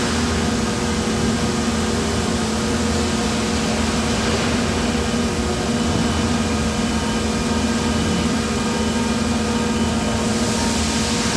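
Steady hum of heavy industrial machinery: an even low drone with several faint steady tones above it, unchanging throughout.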